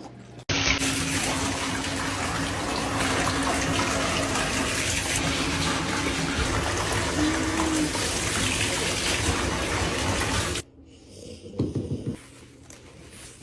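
Water running hard into a bath for a dog's bath. It starts suddenly about half a second in and is shut off after about ten seconds, leaving a few quieter irregular sounds.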